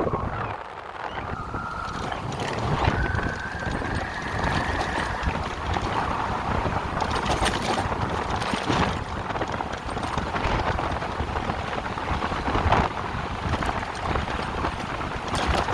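Electric motorcycle on the move: a steady rush of wind and road noise, with the motor's thin whine rising in pitch over the first few seconds as it speeds up.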